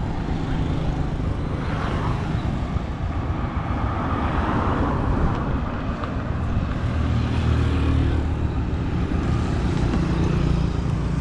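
A motor vehicle's engine running steadily under way, with road and wind noise. The engine note grows stronger about two-thirds of the way through.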